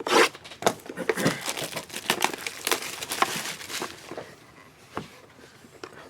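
Plastic wrapping on a sealed trading-card box crinkling and tearing as it is opened, dense sharp crackles for about four seconds, then a few scattered clicks.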